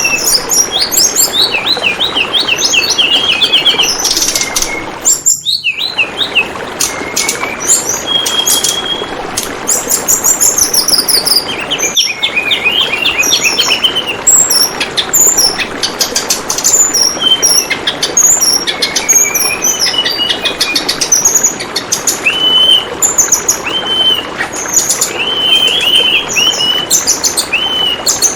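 Tledekan bambu birds calling with quick runs of chirps and short whistled notes over a steady trickle of flowing water. The sound briefly drops out about five seconds in.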